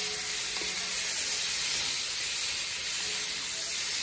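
Curried shrimp sizzling steadily in hot oil in a cast-iron pot as they are stirred with a metal spoon, with a light clink of the spoon against the pot about half a second in.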